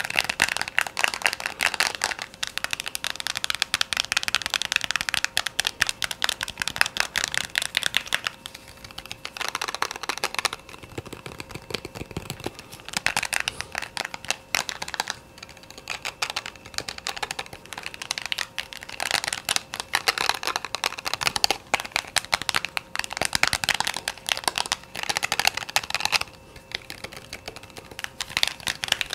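Fast ASMR tapping: a dense, rapid run of light taps that comes in louder flurries with softer stretches between.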